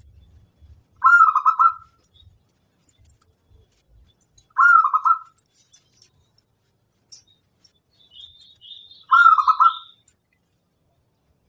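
Zebra dove (perkutut) cooing: three short trilled coos about four seconds apart.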